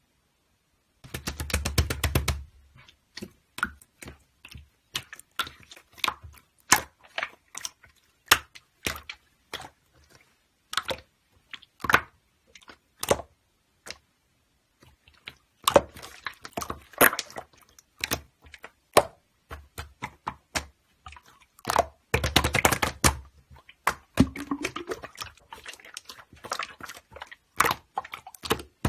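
Typing on a computer keyboard: irregular keystroke clicks, with fast flurries of keys about a second in and again near the end.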